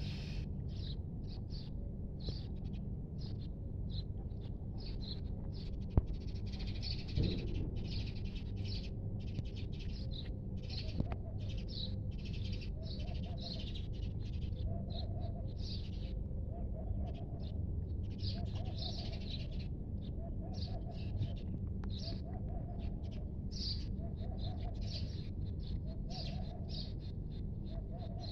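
Birds calling: short high chirps repeating about once or twice a second, joined about halfway through by a softer, lower call repeating roughly once a second, over a steady low background hum.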